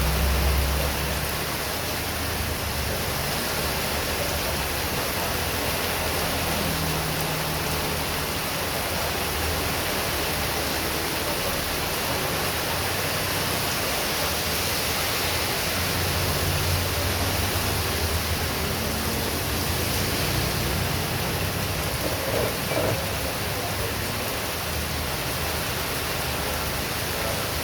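Heavy rain falling steadily in strong wind, a dense even hiss with a low rumble that swells and fades underneath.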